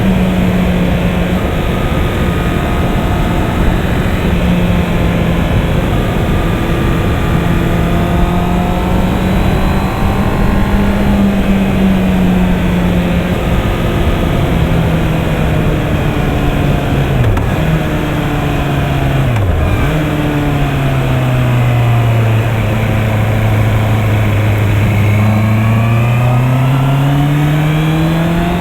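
Honda CB650R's inline-four engine running at a steady cruise with wind rush, its note dipping sharply twice, then settling lower for a few seconds before rising steadily as the bike accelerates near the end.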